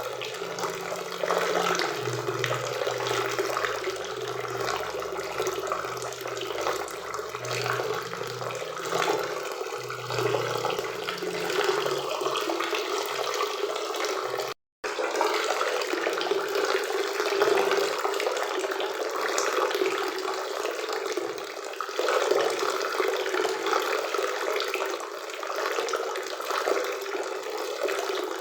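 Steady rushing of a forest waterfall and river. The sound cuts out completely for a split second about halfway through, and a faint low hum sits under the first half.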